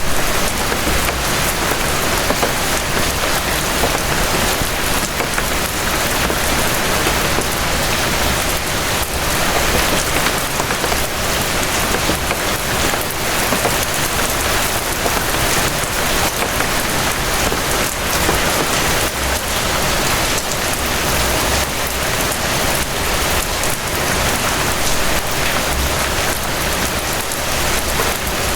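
Gentle rain falling steadily: an even hiss with many fine drop ticks.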